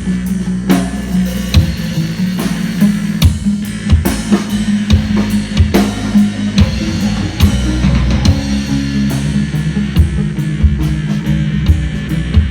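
Live rock band playing, the drum kit keeping a steady beat of bass drum and snare over sustained low bass and guitar.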